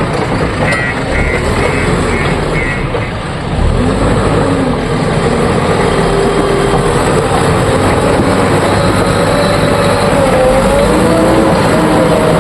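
Heavy diesel engines of a backhoe loader and dump truck running, the engine pitch rising and falling as they work and climbing near the end. About a second in comes a run of short, evenly spaced beeps, like a reversing alarm.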